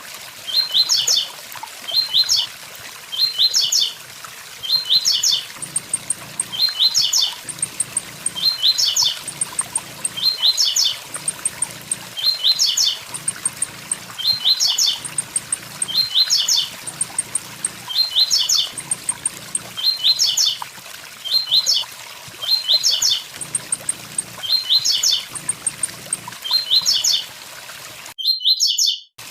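Blue-black grassquit (tiziu) singing its short 'tui tui zel zel' phrase, a few quick high rising notes, repeated about once a second over the steady rush of a waterfall. The sound cuts out for about a second near the end.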